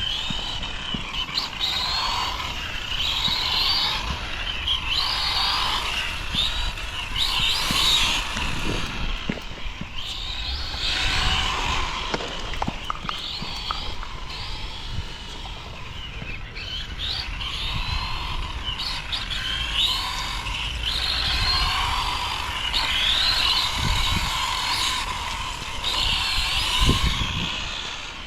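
Radio-controlled model cars' motors whining, rising and falling in pitch again and again as they speed up and slow down, over a steady low rumble.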